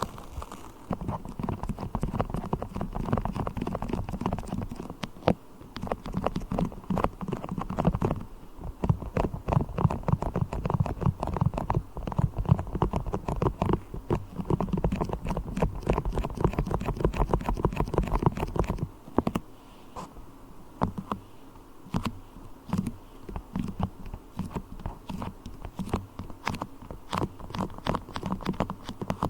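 Sticky beeswax worked with the fingers right at the microphone: quick crackling, clicking and squishing, with a heavier low rumble that drops away about two-thirds of the way through, leaving lighter, sparser crackles.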